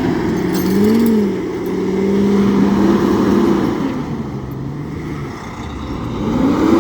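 Vehicle engines revving up and down several times over a steadier engine note, as vehicles try to get moving on a slick, snow-covered road.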